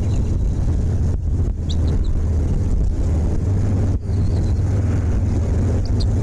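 Wind buffeting the microphone, a steady low rumble, with a few faint short high bird chirps now and then.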